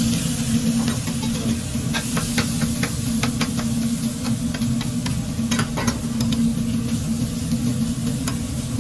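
Food frying and sizzling in a food truck kitchen, with scattered sharp clicks of metal utensils, over a steady low hum.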